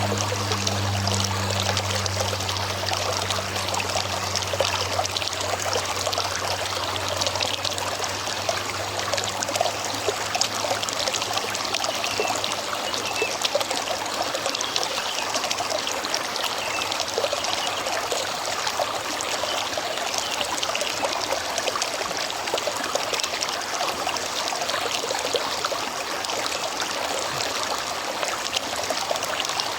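River water flowing over stones, a steady rushing babble with no pauses. A low steady hum fades out in the first few seconds.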